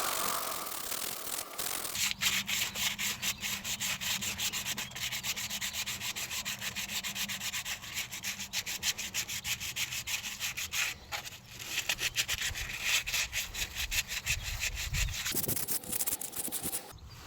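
Rapid scrubbing or sanding strokes worked back and forth on a part, starting about two seconds in and stopping just before the end.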